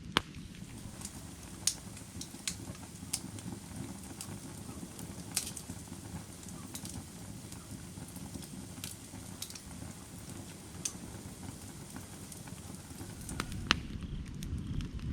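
Burning firewood crackling and popping: sharp irregular snaps over a steady low rumble of flame.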